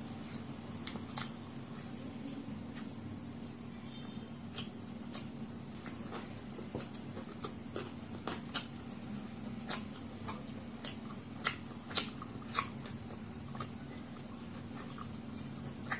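Close-up eating sounds of fried chicken lollipop being bitten and chewed, with scattered wet mouth clicks and smacks, a few louder ones about three-quarters of the way through. A steady high-pitched whine and a low hum run underneath.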